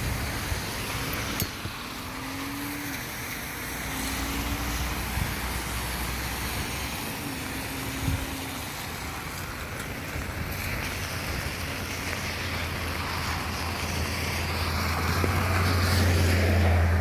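Steady rain hiss on a wet street, with a car engine's low hum close by that grows louder near the end.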